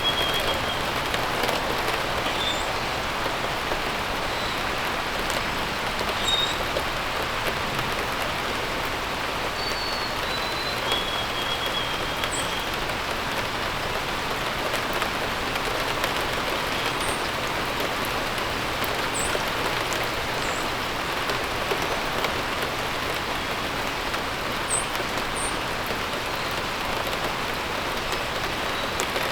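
Steady rain falling, with short bird chirps scattered through it: a few lower whistles in the first dozen seconds and brief high chirps throughout.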